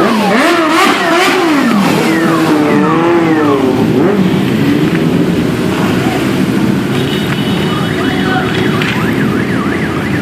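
A group of motorcycles running and revving, their engine pitches rising and falling, with a siren warbling in fast up-and-down sweeps about seven seconds in.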